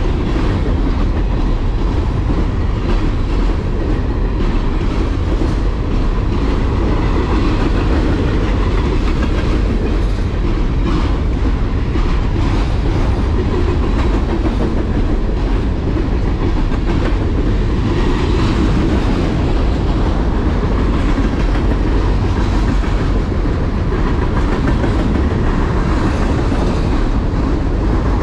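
A train rolling past, steel wheels clacking steadily over the rail joints.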